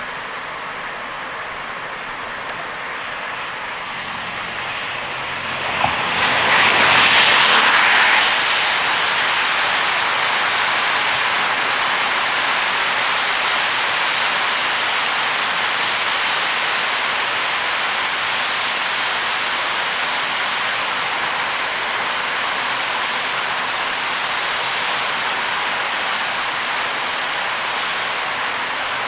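Car driving through heavy rain: a steady rushing hiss of rain and tyre spray on the wet road, which swells about six seconds in, is loudest for a couple of seconds, then settles into a steady loud rush.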